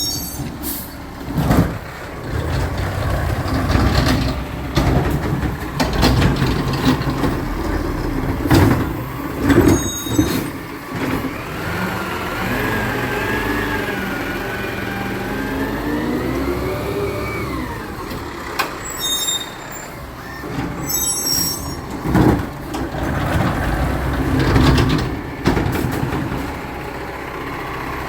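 Recycling truck at work: its diesel engine running under repeated clanks and bangs. A wavering whine climbs and then drops off quickly about two-thirds of the way through, and there are several short high squeals.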